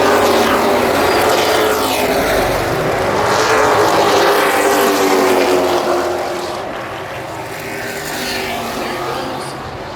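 Race truck engines running hard as the field passes, their pitches gliding. The sound is loud for about six seconds, then drops away somewhat.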